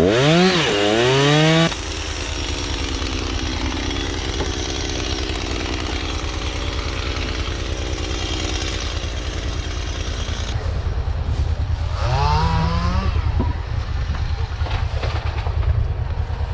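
Chainsaw revving up and down at high throttle, then dropping off abruptly under two seconds in. After that a lower engine runs steadily with an uneven pulse, and there is a short rising rev about twelve seconds in.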